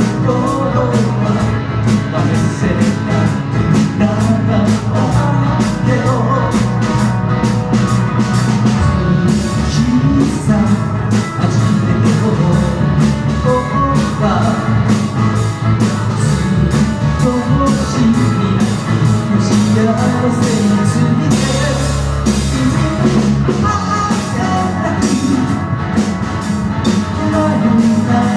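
Live band performing a rock song: drum kit, guitars and singing.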